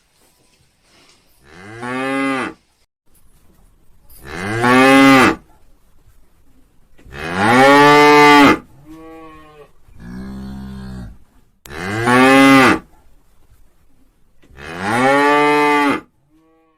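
A cow mooing five times, each moo about a second long, rising then falling in pitch. A quieter, lower call and a breathy sound come between the third and fourth moos.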